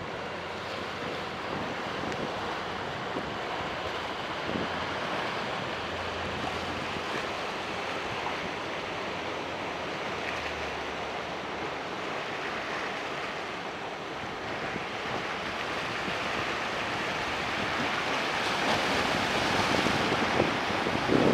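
Surf breaking in rough water, with wind buffeting the microphone, growing louder over the last few seconds.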